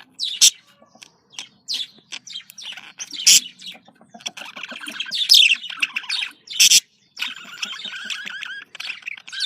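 Budgerigars chattering: sharp chirps mixed with long stretches of rapid warbling, the courtship chatter of male and female budgies.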